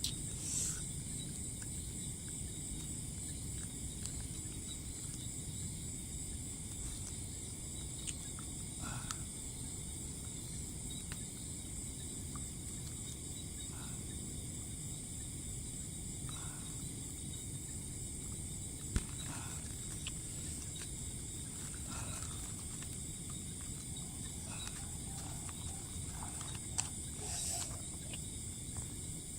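Steady, high-pitched chorus of insects with a low rumble beneath it, broken by a few faint knocks and rustles and one sharp click about 19 seconds in.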